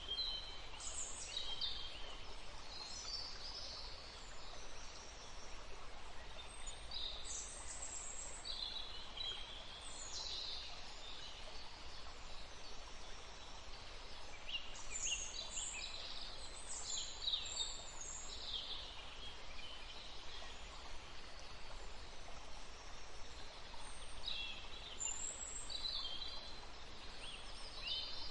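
Steady rush of a woodland stream, with small birds singing short runs of high chirps over it in several spells.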